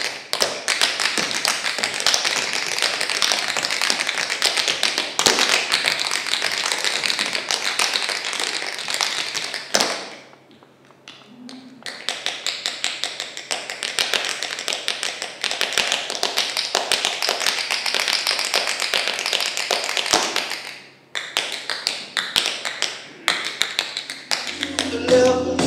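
Tap dancing: tap shoes striking a hard floor in rapid, dense rhythms. There is a pause of about two seconds roughly ten seconds in, and a brief break near the end.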